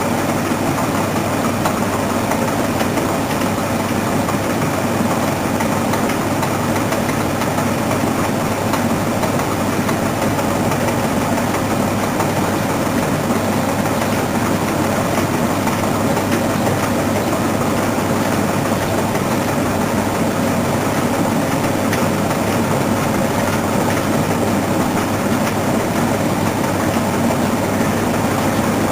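Washing machine running, its motor and drum making a steady hum and rumble with no pauses.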